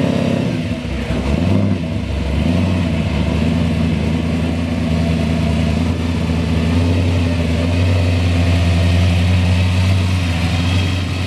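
Car engine running: its pitch shifts a little in the first couple of seconds, then it settles into a steady idle.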